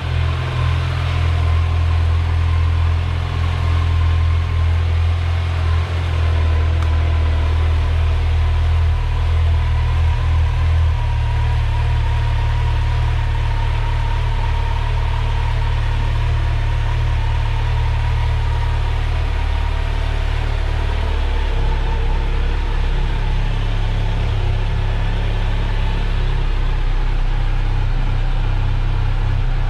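Kawasaki Z900's inline-four engine idling steadily through its stock exhaust during a cold-morning warm-up. Its low pitch shifts slightly about ten seconds in and again around twenty.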